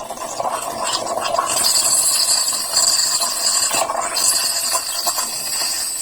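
Steam wand of a Klarstein Espressionata Gusto espresso machine hissing into milk in a tilted cup, the tip held shallow to heat the milk. The hiss starts right away and grows louder about a second and a half in, with a short dip near the end.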